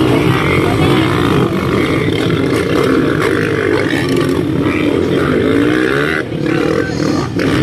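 Several motocross bikes' engines running together, their pitch wavering up and down as riders blip the throttles.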